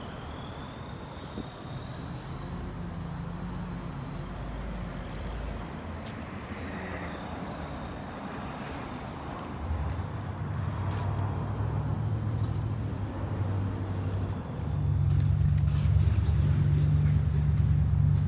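Mercedes OM460LA 12.8-litre inline-six diesel engine running in a truck, growing louder in two steps about ten and fifteen seconds in.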